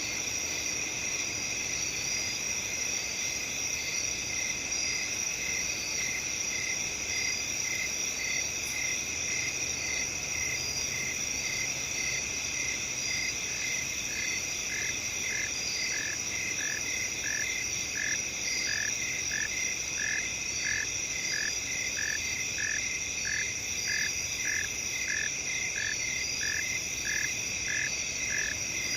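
Night-time field chorus of crickets trilling steadily, with a short chirping call repeating about one and a half times a second. A second, slightly lower chirping call joins about halfway through.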